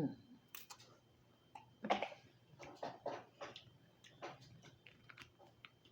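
Close-miked mouth sounds of eating steamed lobster: wet chewing and lip-smacking, a scatter of short irregular smacks and clicks, the loudest about two seconds in.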